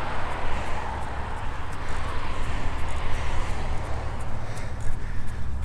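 Wind rumbling and buffeting on the microphone of a moving bicycle, over a steady wash of road traffic noise.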